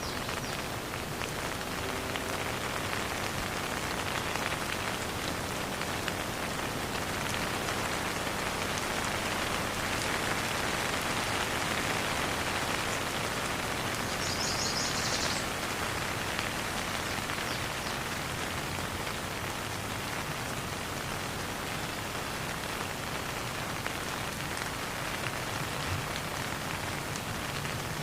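Steady rain falling, a dense even patter of drops that swells slightly around the middle. A brief high chirp sounds about halfway through.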